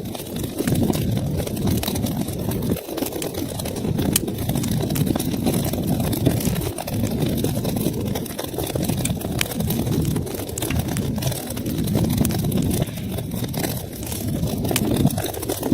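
Wood fire burning in a fireplace: a steady low rumble of flames that swells and eases, with scattered sharp crackles and pops of burning wood.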